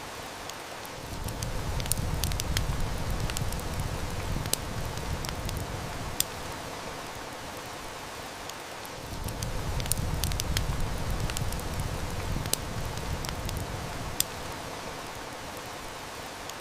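Steady heavy-rain hiss with wood-fire crackles and sharp snaps scattered through it. Twice a low rumble swells up for several seconds and fades.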